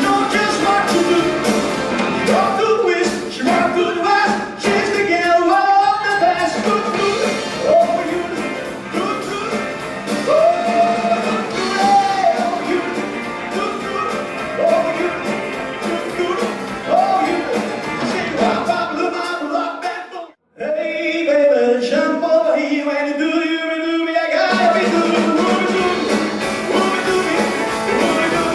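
Live rock band playing a song with sung lead vocals over drums, bass and guitar. About two-thirds of the way through the band stops dead for an instant, then plays for about four seconds without bass and drums before the full band comes back in.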